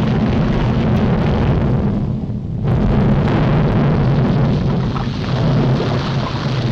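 Continuous rumbling of a volcanic eruption, a cartoon sound effect on an old soundtrack, easing briefly about two seconds in.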